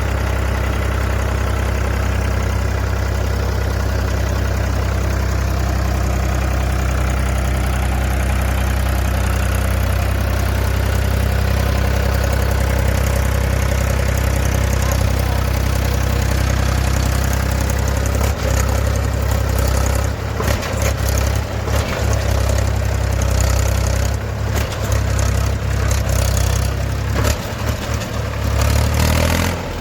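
Heavy diesel engine running steadily with a deep low hum. From about eighteen seconds in the sound turns choppy, with crackles and brief dropouts.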